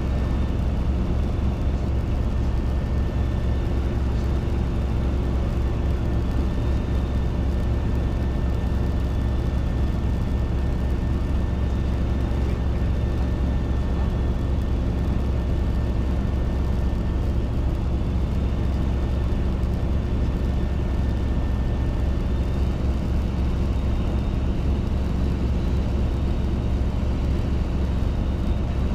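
Robinson R22 helicopter in flight, heard from inside the cabin: the steady drone of its piston engine and rotors, with a thin high whine above it.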